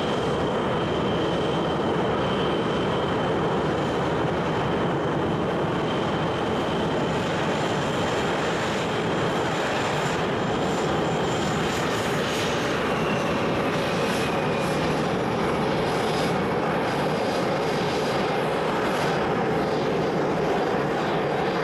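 Helicopter turbine engines running steadily: a broad rush with a thin high whine on top, which dips slightly in pitch about halfway through.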